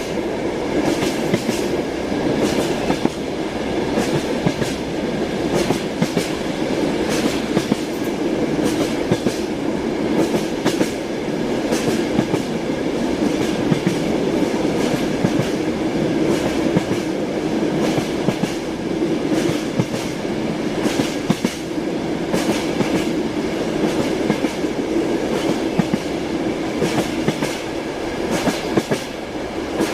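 Train running along the track: a steady rumble with the repeated knocking of its wheels over the rail joints.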